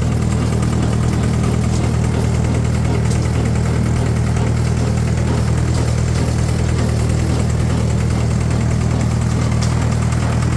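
1953 Fordson Major tractor engine running steadily at an even, unchanging speed.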